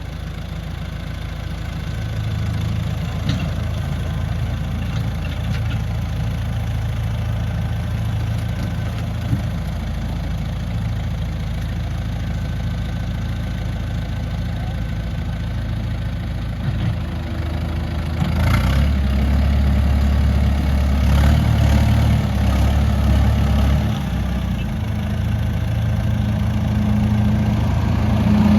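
Heavy diesel engine of earthmoving machinery running steadily, growing louder and deeper about two-thirds of the way in.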